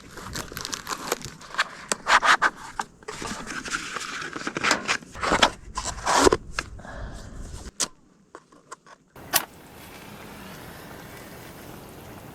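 Handling noises: irregular rustling, crinkling and scraping with many sharp clicks, then a short lull and a steady hiss near the end.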